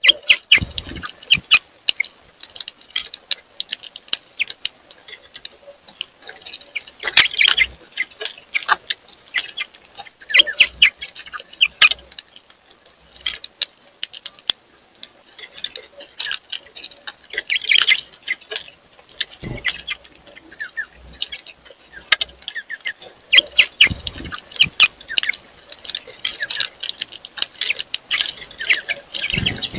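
Small birds chirping in many short, quick calls, mixed with sharp ticking clicks, as a group of birds feeds.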